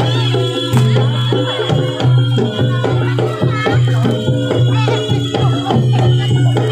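Loud live music of the kind that accompanies a Javanese trance dance: drums and percussion strokes over a steady low drone, with a wavering, gliding melody line above.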